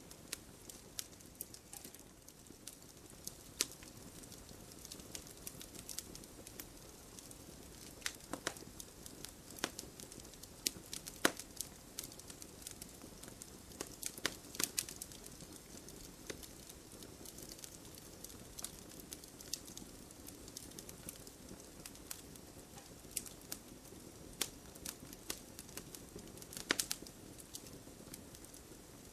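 Wood fire burning in a fireplace: a low steady hiss with irregular crackles and occasional louder pops.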